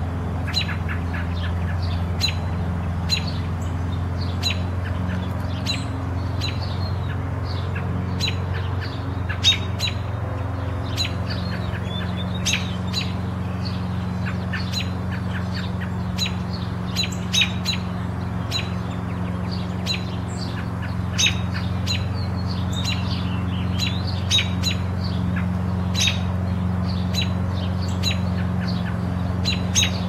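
Small birds chirping: short, sharp high calls repeating irregularly about once or twice a second, over a steady low hum.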